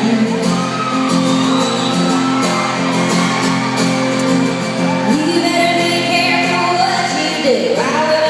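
Live country band playing with singing, heard in a large hall.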